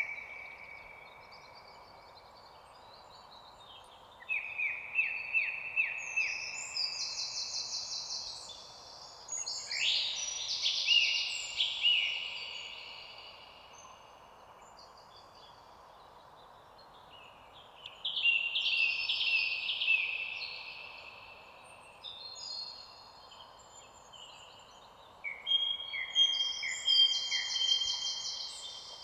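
Songbirds singing in four spells of rapid chirps and trills, with quieter pauses between them, over a faint steady hiss of background ambience.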